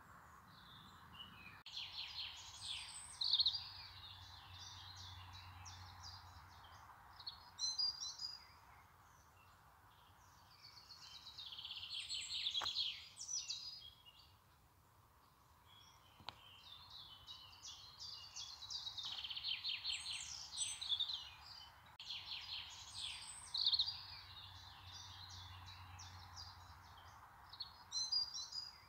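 Birdsong: a bird singing bursts of rapid trills and chirps every few seconds, over a faint steady hiss.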